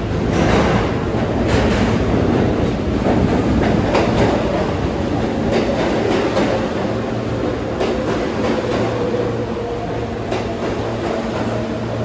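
New York City subway train running through the station, its wheels clacking over the rail joints in a series of sharp clicks, with a steady humming tone rising in the second half.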